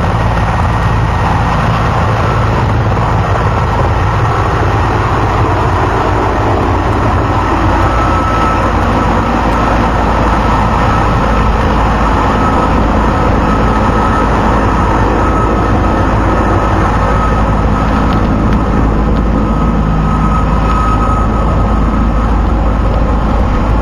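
Crane helicopter's turbine engines and rotor running steadily: a loud, even low rumble with a thin high whine over it, starting suddenly and holding without change.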